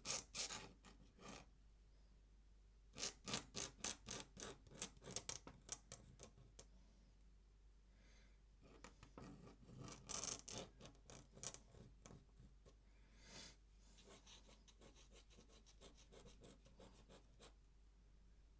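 Pen nib scratching across paper in runs of quick short strokes, with pauses between the runs, as ink lines and feather marks are drawn.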